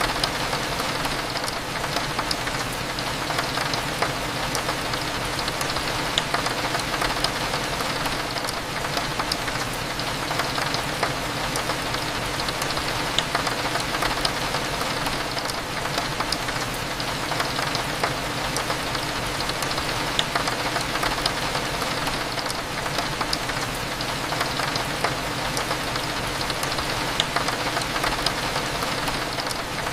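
Steady rain on a window, with many small drop ticks, over a low, steady cafe hum.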